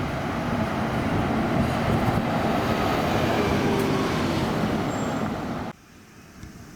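Shuttle bus running close by, its engine and tyre noise steady and loud, then cutting off suddenly near the end, leaving a much quieter background.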